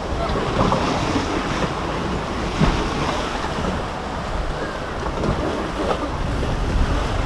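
Rushing water of a river rapids ride churning around the raft, with wind buffeting the microphone as a steady low rumble.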